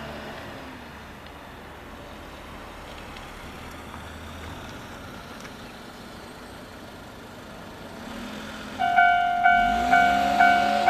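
A low vehicle rumble, then about nine seconds in a Japanese railway level-crossing alarm starts ringing: a loud repeating electronic bell, about two strokes a second, warning that a train is approaching.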